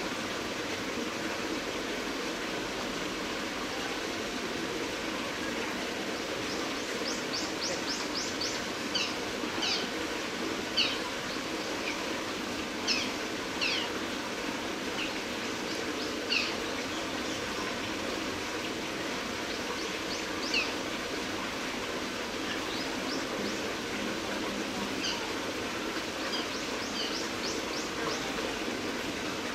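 Small birds calling now and then over a steady background hum: short, high calls that slide downward in pitch, beginning about seven seconds in with a quick run of notes, then scattered single calls.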